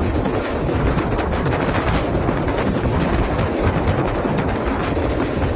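Moving passenger train heard from on board: a steady loud rush of wheel and rail noise with faint scattered clicks.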